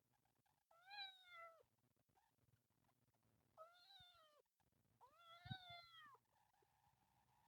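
Kitten meowing three times, high-pitched calls that each rise and then fall, the last one the longest.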